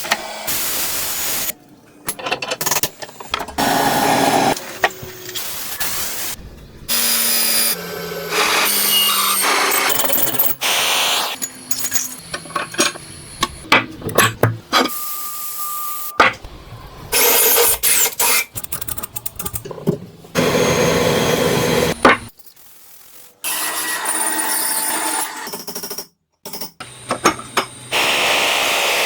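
A small power tool running in a string of short clips that start and stop abruptly, with tool-on-material rubbing between them.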